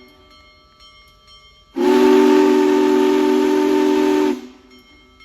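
Union Pacific Big Boy 4014 steam locomotive's whistle sounding one long blast of about two and a half seconds as the train departs: a low chord of several notes with steam hiss, starting about two seconds in and stopping sharply.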